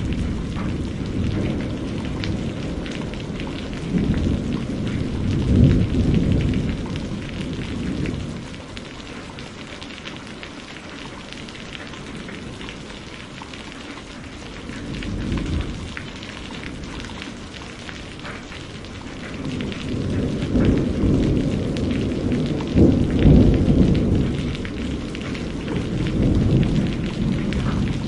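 Steady rain with rolling thunder: low rumbles swell and fade several times, and the longest comes in the second half.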